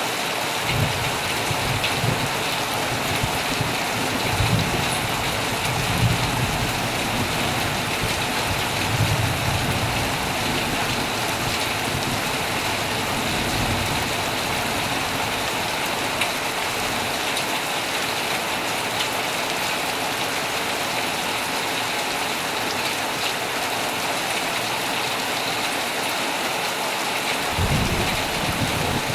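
Heavy rain falling steadily on a tent, an even hiss, with low rumbles of thunder through the first half and again near the end.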